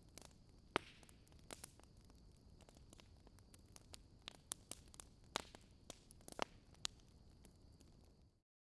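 Wood fire crackling: irregular sharp pops and snaps over a faint steady hiss, cutting off abruptly to silence near the end.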